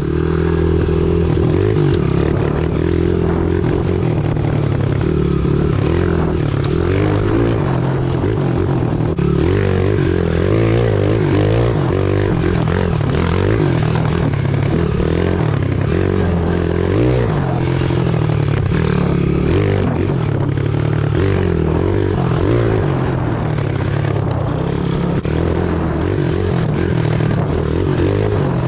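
Pit bike's small single-cylinder engine running under way off-road, its pitch repeatedly rising and falling as the throttle is worked.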